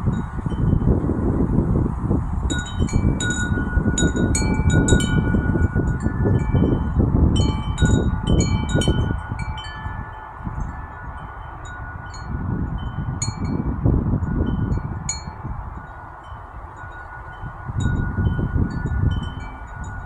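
Wind chime tubes struck by the breeze, ringing out in irregular clusters of clear tones, busiest in the first half. Gusts of wind rumble on the microphone underneath, easing off twice and picking up again near the end.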